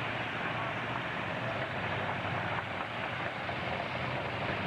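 Demolition-derby pickup trucks' engines running together in a steady, loud din with a low rumble.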